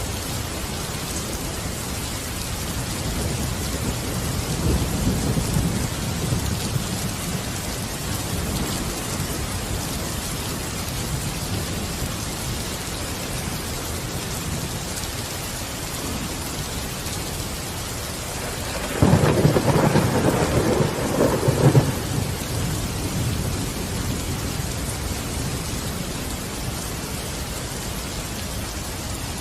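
Steady rain falling, with a low rumble of thunder building a few seconds in. About two-thirds of the way through, a louder thunderclap breaks in suddenly and rolls on for about three seconds before fading back into the rain.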